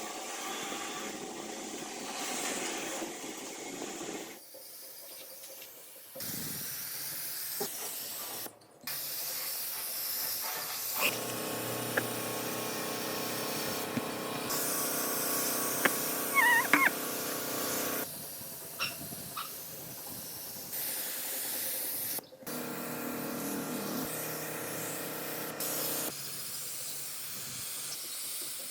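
Workshop sounds in a run of short cuts: a steady hiss that changes character from cut to cut, with a few sharp clicks and a brief warbling squeak about two thirds of the way through.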